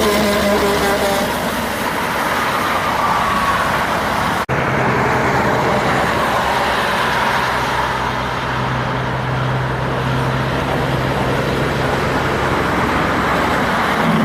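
Heavy road traffic passing, with diesel truck engines running over a steady rush of tyre noise. The sound drops out briefly about four and a half seconds in, then continues with a steady low engine drone.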